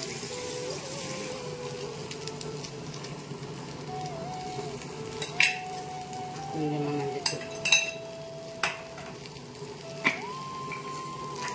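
Cut okra sizzling as it stir-fries in a kadai, stirred with a wooden spatula, with several sharp clinks of metal pots and utensils in the second half. A soft background melody of held notes plays underneath.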